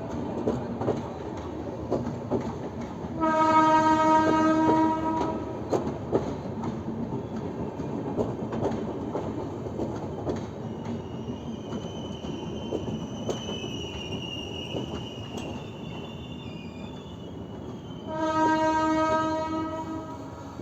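Train running with a steady rumble and clickety-clack over the rail joints; its horn sounds twice, a two-second blast a few seconds in and another near the end. A faint high-pitched whine runs through the middle.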